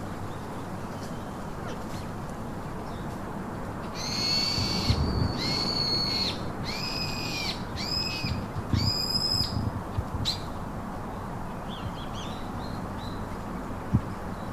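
A pet parrot giving a run of about five long, steady whistled calls, each held for half a second to a second, followed by a few faint chirps, over a steady background hiss.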